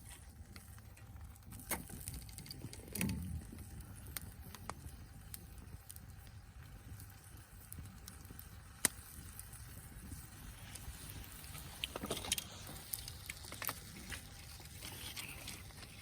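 Wood fire of a burning log crackling, with scattered sharp pops over a low steady rumble.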